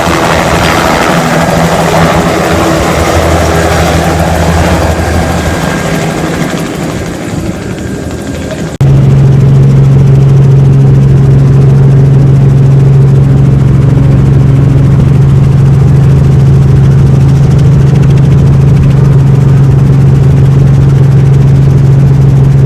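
Helicopter engine and rotor running steadily in flight, a constant hum with hiss. About nine seconds in, the sound changes abruptly to a louder, steady low drone with less hiss.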